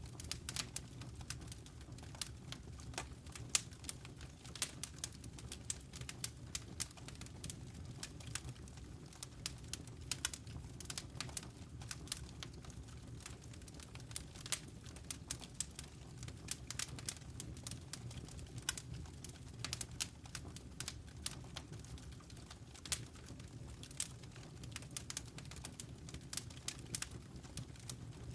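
Wood fire crackling in a fireplace: irregular sharp snaps and pops over a steady low rumble of burning flames.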